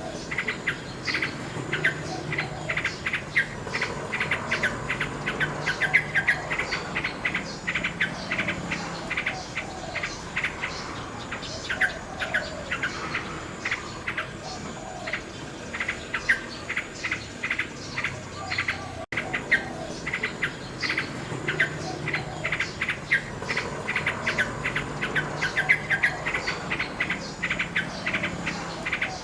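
Nightingale singing: rapid runs of repeated notes and whistled phrases, one after another without pause.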